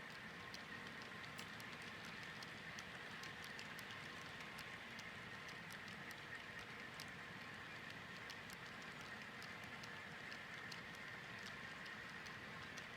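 HO scale model freight train rolling along the track: an even rolling hiss with many small, irregular wheel clicks over the rail joints.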